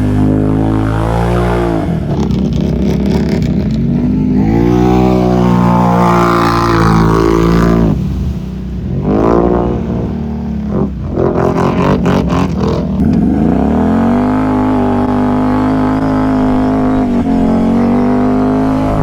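ATV engine under way, its pitch climbing and dropping again and again as the throttle is worked. Around the middle it stutters roughly for a moment, then settles into a steady drone.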